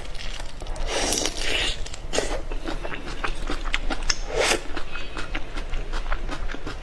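Close-miked eating sounds: a person biting and chewing food, with many small wet clicks and crackles and a few louder bites.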